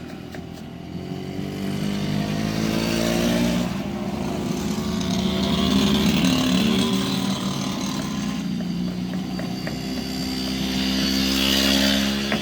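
An engine running, its pitch rising and falling slowly a few times.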